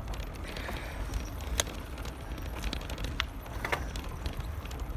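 Bicycle being ridden, with wind rumbling on the handlebar-mounted phone's microphone and a few sharp clicks and rattles from the bike.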